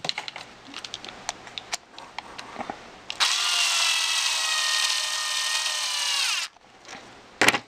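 Small handheld electric driver running for about three seconds with a steady whine that drops in pitch as it stops, tightening a nut onto a screw. Light clicks of small parts being handled come before it, and there is a sharp click near the end.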